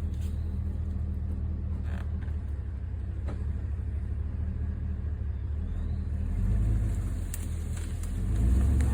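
Truck engine running steadily at a low hum, rising briefly in level twice near the end as it is given more throttle.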